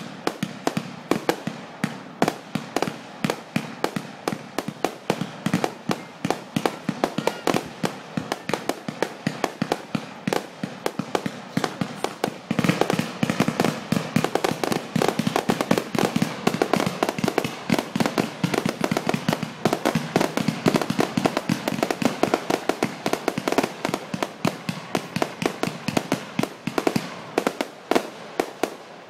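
Fireworks going off in a rapid, continuous string of crackling pops, many a second. The pops grow denser and louder about halfway through and stop abruptly near the end.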